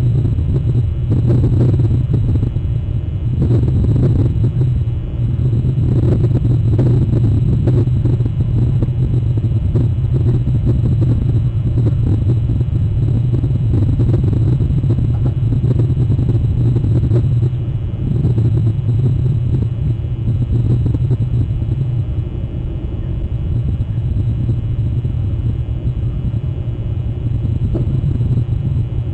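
A loud, steady low rumble, with a few brief louder surges in the first several seconds.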